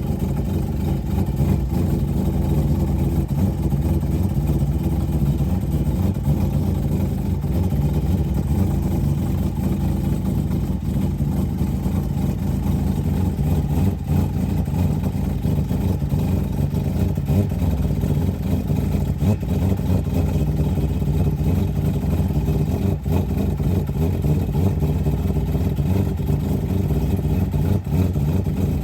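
Four-rotor peripheral-port rotary engine running steadily and loudly, holding a fairly even speed without big revs.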